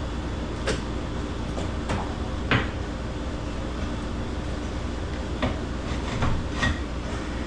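Scattered sharp knocks and clanks of metal parts and tools being handled, about six over the stretch, the loudest about two and a half seconds in, over the steady low hum of the cooler's air conditioning.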